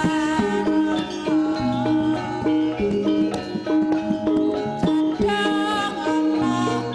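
Javanese gamelan music accompanying lengger dance: tuned percussion sounding a run of held notes, with drum strokes.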